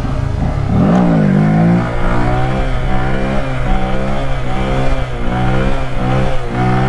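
A 125cc mini bike's single-cylinder engine revving hard under throttle, its pitch climbing and dropping again and again as the throttle is worked.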